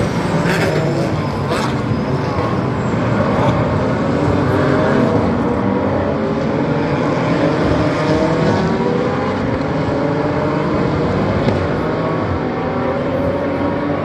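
Several GT race car engines running at once on track, their pitch rising steadily as they accelerate, with a few sharp cracks in the first two seconds.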